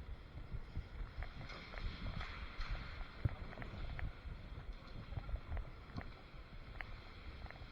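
Muffled rumbling and rubbing of a body-worn camera's microphone against clothing or gear as the wearer moves, with scattered faint clicks.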